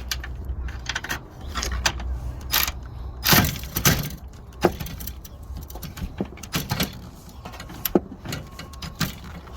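Irregular clicks, knocks and rattles of tools and car parts being handled during disassembly of a car's front end, with a cluster of louder knocks about three and a half seconds in.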